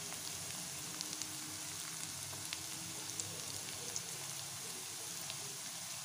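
Oil sizzling steadily around diced potatoes, shallots and curry leaves frying in a kadai, with scattered small crackles.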